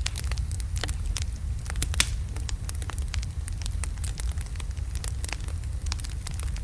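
Wood logs burning in a fireplace: a steady low rumble of flame with irregular sharp crackles and pops, the loudest pop about two seconds in.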